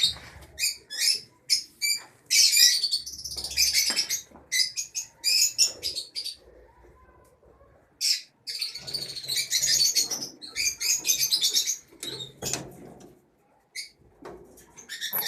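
Lovebirds chirping and chattering in rapid runs of high, shrill chirps, with a short lull midway.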